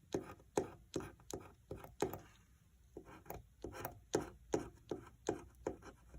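Scratch-off lottery ticket being scratched: short, quick scraping strokes, about two or three a second, with a brief pause partway through.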